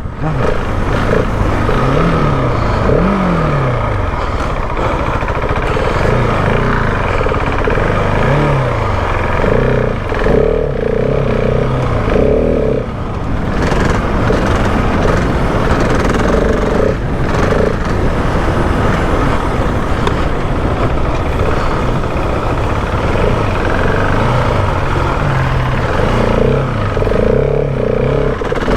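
Husqvarna 701 Enduro's big single-cylinder four-stroke engine being ridden, its pitch rising and falling again and again as the rider works the throttle through the track's corners and straights, under a steady rushing noise.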